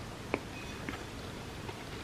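Close-miked eating sounds of milk-soaked chocolate cake: small wet mouth clicks and chewing over a steady hiss, with one sharper click about a third of a second in.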